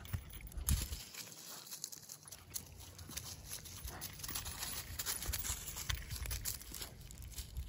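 Footsteps of a person and a small dog crunching and rustling through dry leaves, with irregular clicks and scuffs.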